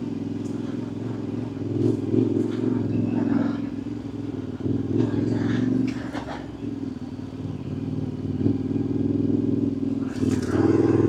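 Yamaha Ténéré 700's parallel-twin engine pulling a motorcycle up a dirt-trail hill, the throttle opening and easing so the engine swells a few times, loudest near the end, with occasional clicks and clatter.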